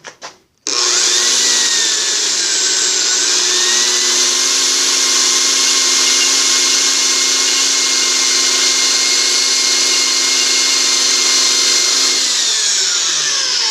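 Harbor Freight portable bandsaw starting up with a click and running with a steady high motor whine while its 24 TPI metal-cutting blade cuts through the end of a hickory pen blank. The pitch sags briefly a couple of seconds in, then holds; near the end the saw is switched off and winds down.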